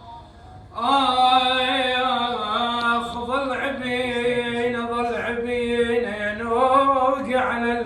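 A man chanting a Husseini abudhiya, an Iraqi mourning elegy, in long, ornamented held lines. The voice comes in about a second in, after a short pause, and breaks off briefly twice.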